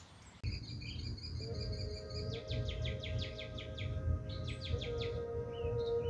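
Birds chirping, with a rapid trill of about eight notes a second a little past two seconds in and a shorter one near five seconds, over soft held music tones and a low steady rumble.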